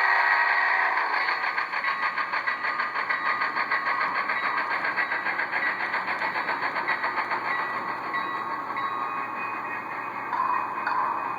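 Sound decoder of a model Challenger steam locomotive playing its exhaust chuff through the model's small speaker: a fast, even beat of chuffs that slowly fades. A whistle-like tone dies away in the first second.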